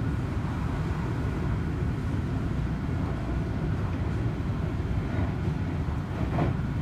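Steady running sound inside a Seibu 40000-series commuter train car: a constant low rumble of the wheels on the rails, with a brief higher-pitched sound rising out of it near the end.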